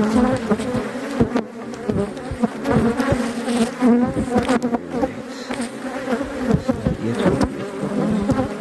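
Honeybees buzzing in a loud, steady mass around an opened hive, agitated. The colony is very cross at being disturbed. Scattered clicks and knocks run through the buzz.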